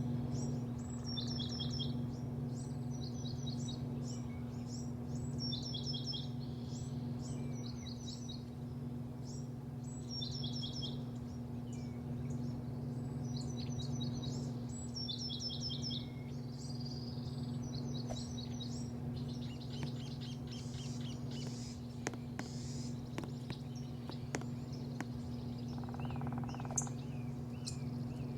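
Small songbirds singing in repeated short phrases of quick high chirps, frequent through the first half and sparser later, over a steady low mechanical hum.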